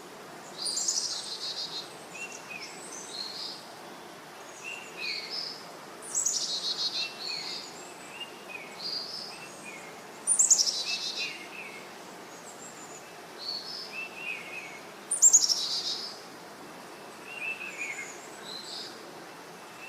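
Birds singing and chirping over a faint steady outdoor hiss. A louder song phrase, a quick falling run of notes, comes four times, about every four to five seconds, between shorter chirps.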